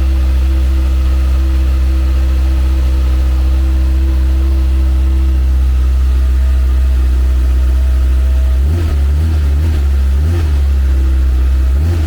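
2020 Kawasaki ZX-6R's 636 cc inline-four idling steadily on its stock exhaust after a cold start. About three quarters of the way through, a lumpier, uneven engine beat joins in over it.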